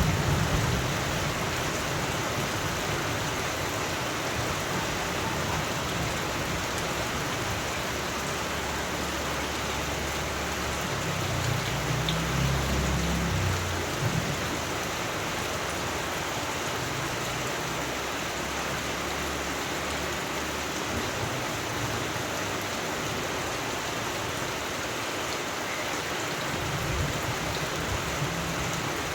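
Steady rain falling, with low rumbles of distant thunder at the start and again about halfway through.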